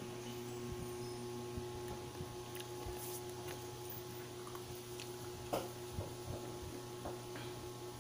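Close-up chewing and mouth sounds, with a few sharp clicks scattered through, over a steady low hum.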